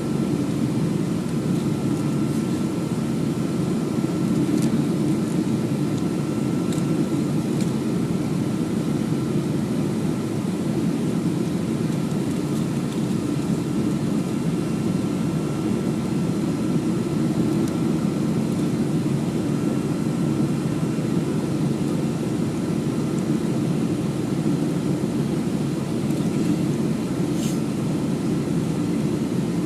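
Boeing 737-300's CFM56-3 jet engines and airflow running steadily, a constant low rumble with a thin steady whine above it, with no change in power.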